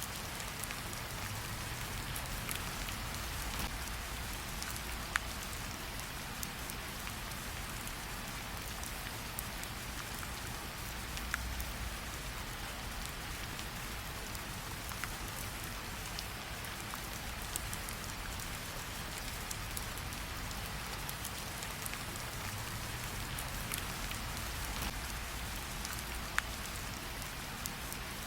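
Steady rain falling on a surface, with a few sharp pops of a crackling campfire scattered through it.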